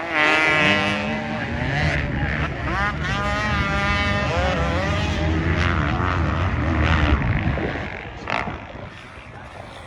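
Off-road racing engines revving hard as the machines pass close, their pitch climbing and dropping with throttle and gear changes. The noise fades away about seven and a half seconds in.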